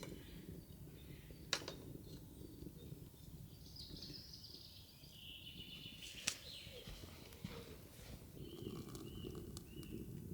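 Birds chirping and warbling in the background over a low steady outdoor rumble, with two sharp knocks, one about a second and a half in and another about six seconds in.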